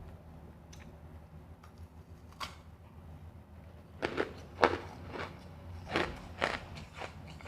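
Close-miked chewing of refrozen powdery ice: a couple of faint clicks, then from about halfway a run of sharp crunches, roughly two a second.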